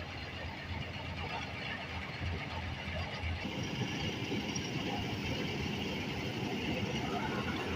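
Combine harvester running steadily, its engine and threshing machinery making a continuous mechanical noise with a low hum; the sound grows fuller and a little louder about three and a half seconds in.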